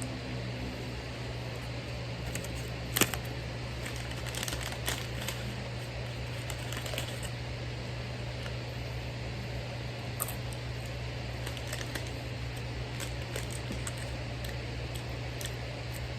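Scattered small clicks and crinkles from handling food and its packaging, over a steady low hum; the loudest is a sharp click about three seconds in.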